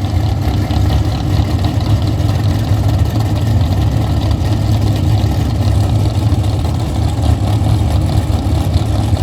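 Steady low rumble of an idling engine, even throughout with no revving.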